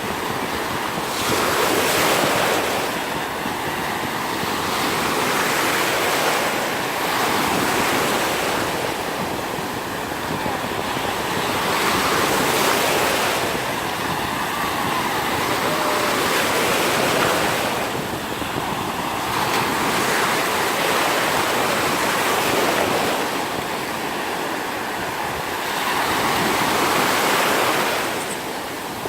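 Sea surf breaking on a sandy beach, waves washing in and out in repeated swells every few seconds, with some wind on the microphone.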